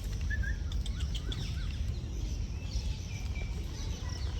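Birds chirping: a quick run of short rising-and-falling calls in the first two seconds, with fainter calls scattered throughout, over a steady low rumble.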